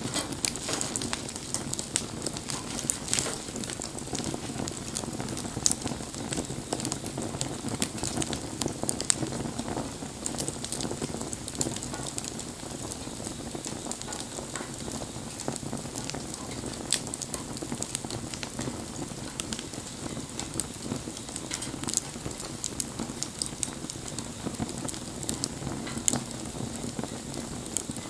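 Wood campfire burning, crackling with many small pops and a few louder snaps over a steady hiss of flames.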